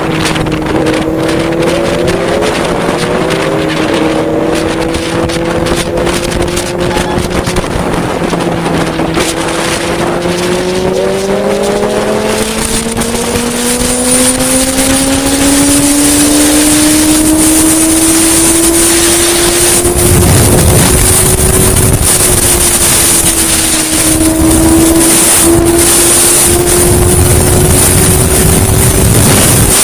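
Yamaha motorcycle engine running under way, heard from on the bike, its note climbing slowly as it gathers speed and then holding steady. Wind buffets the microphone in the second half.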